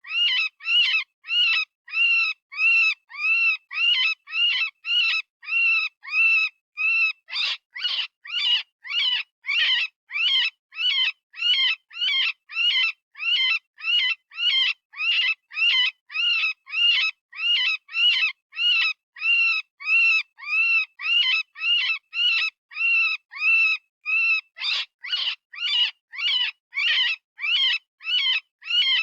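Synthesized rabbit distress call, as used for predator hunting: short, high screaming cries that rise and fall in pitch, repeating steadily about twice a second.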